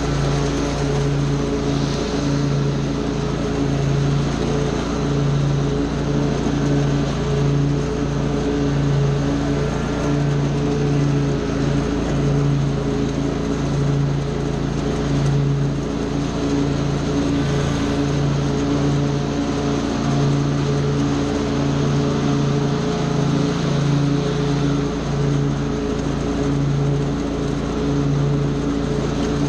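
Small gasoline engine of lawn power equipment running steadily at high speed, its hum pulsing slightly in strength.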